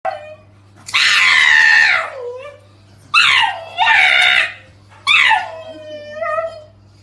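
An animal's loud screaming calls, four in a row, each sliding down in pitch; the first and last last more than a second. A low steady hum lies underneath.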